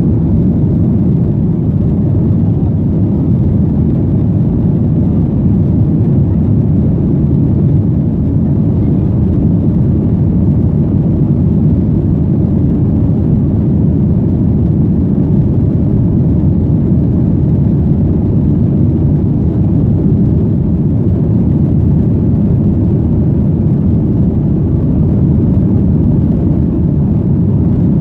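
Steady, loud low rumble inside the cabin of a Boeing 737-800: its CFM56 engines running and air rushing past the fuselage, holding even throughout.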